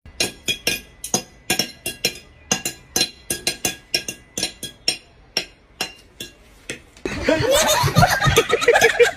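A run of short, sharp clicks or taps, unevenly spaced at about three a second, then about seven seconds in a burst of high-pitched laughter.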